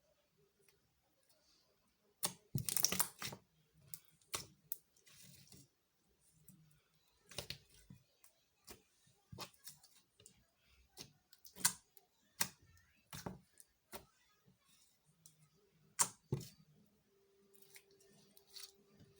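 Slime being played with: irregular sharp pops and clicks, with a louder crackling run about two to three seconds in.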